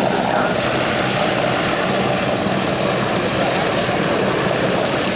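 Aircraft engine running steadily: a continuous drone with a low, even hum beneath it and no change in level.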